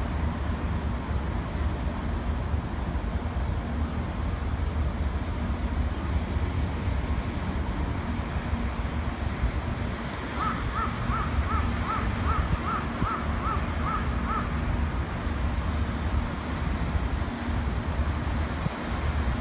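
Steady low outdoor rumble. About halfway through, a bird calls a quick series of about a dozen short notes, roughly three a second, for some four seconds.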